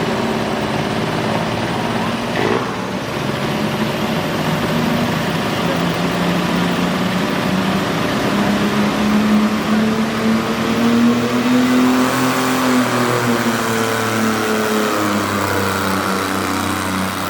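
Modified garden tractor engine running hard under load in a pull. Its pitch climbs slowly for several seconds, then drops away near the end.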